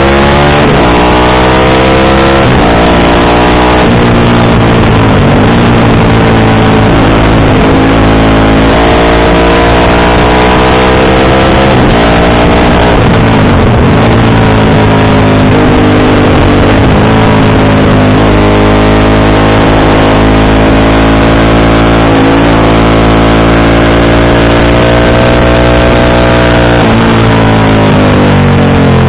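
Motorcycle engine with an aftermarket exhaust under acceleration, its pitch climbing and then dropping sharply at each gear change, several times over.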